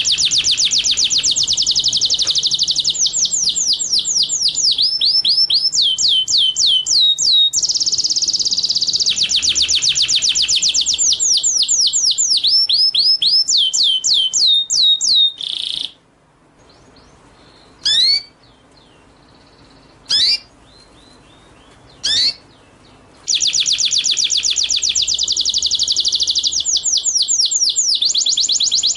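Recorded song of a small songbird, used as masteran: long rapid runs of high, down-slurred chirps repeated many times a second. About halfway through the runs stop for several seconds, leaving single sharp calls about two seconds apart, then the fast runs resume.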